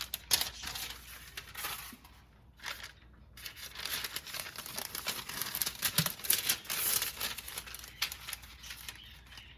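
Aluminium foil crinkling and tearing as a sheet is handled: a few scattered crackles at first, then several seconds of dense crinkling.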